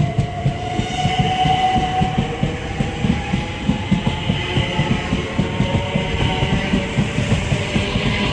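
A train running along the track, its wheels clattering over the rail joints in a quick, even rhythm, with a whine that rises slowly in pitch.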